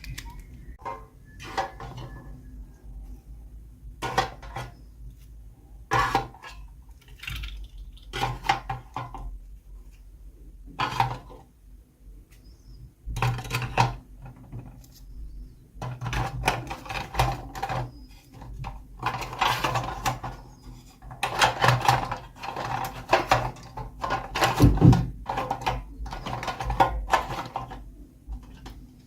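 Hands unboxing and handling small plastic toys and their packaging: irregular clicks, taps and rustles, coming thicker and faster in the second half.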